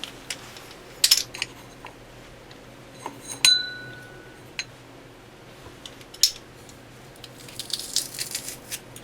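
Kitchen utensils and a plastic manual food processor being handled while garlic is added: a few separate clicks and knocks, one clink about three and a half seconds in that rings briefly, and a quick cluster of scraping and clicking near the end.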